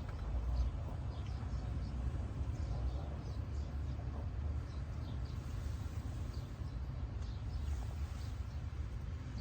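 Small birds chirping faintly, many short calls scattered throughout, over a steady low outdoor rumble.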